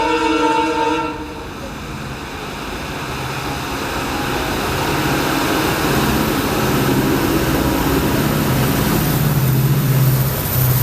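WDP-4 diesel locomotive's horn sounding a chord, cutting off about a second in. Then the locomotive's engine and the train's running noise rumble, building louder toward the end.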